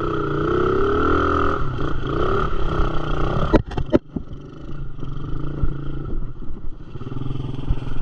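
Dirt bike engine revved hard, its pitch rising and wavering, as the bike churns to get out of a deep mud pit. A couple of sharp knocks about three and a half seconds in, then the engine settles to a steadier, lower run.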